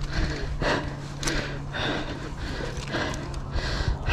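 A person breathing hard in quick, noisy puffs, about one and a half a second, as after a fall.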